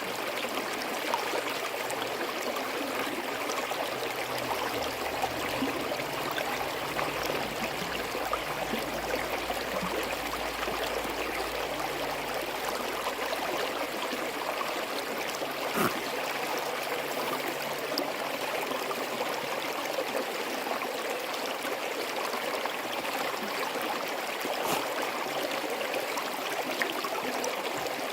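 A small stream flowing steadily over rocks, trickling and gurgling, with a couple of faint clicks along the way.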